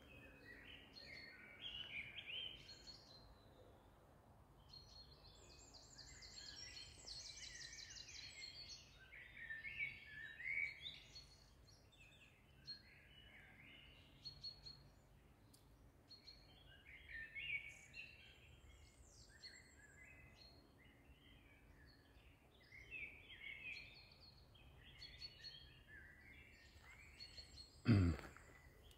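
Birds singing and chirping, faint, with a rapid high trill several times; a short thump near the end.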